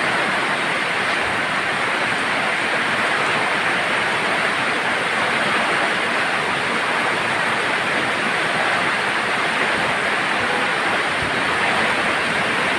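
Steady heavy rain falling, an even hiss of patter with wind.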